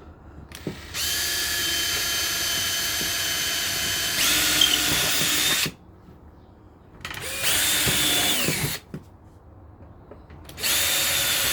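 Power drill driving screws into wood with a steady motor whine, in three runs: a long run of several seconds, a short burst, then another run starting near the end.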